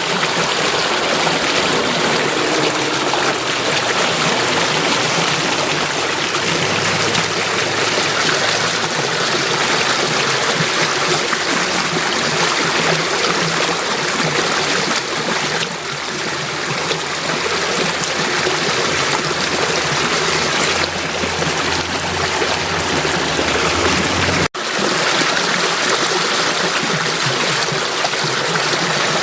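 Water flowing steadily in a stream, a constant rushing with trickling. Near the end the sound cuts out for an instant and resumes.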